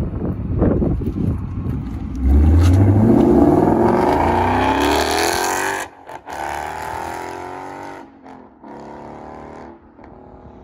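2015 Mustang GT's 5.0 V8 through a Roush cat-back exhaust with an H-pipe, accelerating hard. The engine note climbs steadily in pitch, cuts briefly about six seconds in like a gear change, then climbs again more faintly and fades away.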